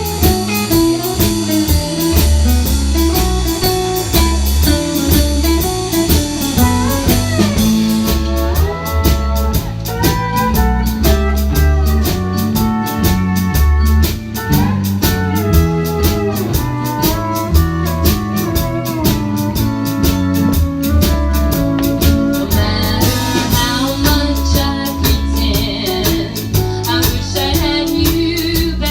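Band playing a bluesy song on guitar, bass and drum kit, with a singing voice over it.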